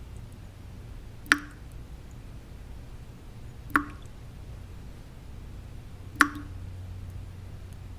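Water drops dripping slowly and evenly, three single drops about two and a half seconds apart, over a steady low rumbling noise.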